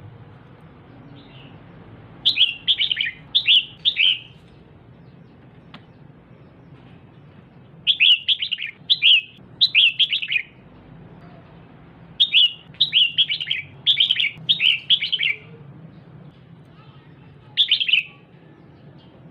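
Female red-whiskered bulbul giving bursts of quick, sharp chattering calls, in four bouts: three to five notes each, with pauses of a few seconds between them and a single short burst near the end.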